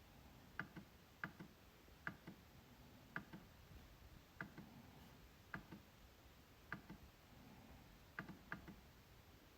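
MacBook trackpad being clicked: sharp single clicks and quick double clicks about once a second, at irregular spacing.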